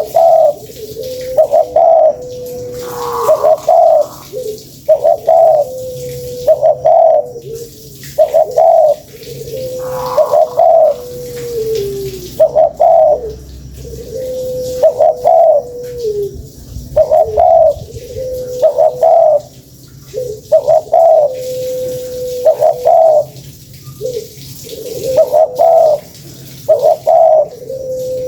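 Spotted dove (tekukur) cooing over and over: a few short coos and a long drawn-out note that drops in pitch at its end, the phrase repeating about every four seconds.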